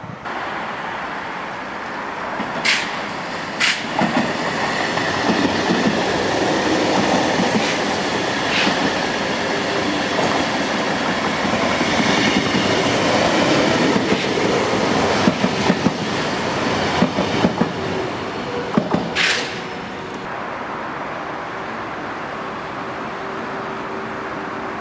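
Double-deck TER electric train passing close, its wheels clattering over rail joints, with a few brief sharp squeals about 3 and 4 s in and again near 19 s. About 20 s in the noise settles to a steadier, quieter hum with a faint tone as a TGV Duplex approaches.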